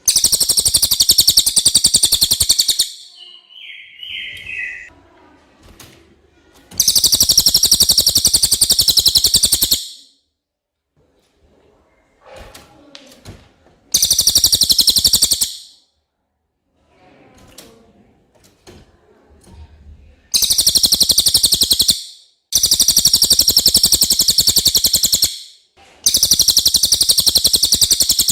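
Cililin bird singing: six loud bouts of a very fast, buzzing trill, each lasting one and a half to three seconds, with pauses between, and a short falling note in one pause.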